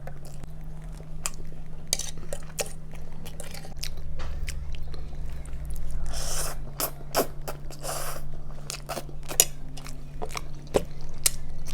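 Close-miked mukbang eating of Jollibee spaghetti: mouth and chewing sounds with scattered sharp clicks of a utensil against a plate.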